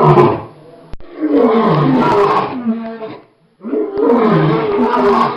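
A lion roaring: the end of one call, then two long, loud calls of about two seconds each with short gaps between, the pitch falling through each call.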